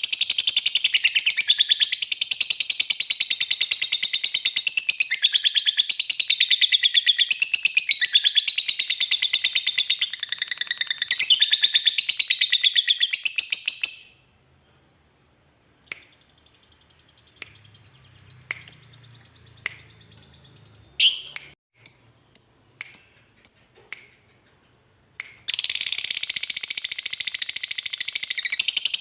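Lovebird chattering in a long, rapid, high-pitched trill (the 'ngekek' song). It breaks off about halfway through, leaving a quieter stretch with a few short separate chirps. The trill starts again near the end.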